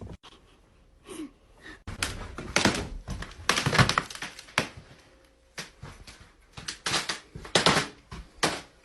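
A string of irregular knocks and thuds in a small room, coming in two clusters after a quiet start.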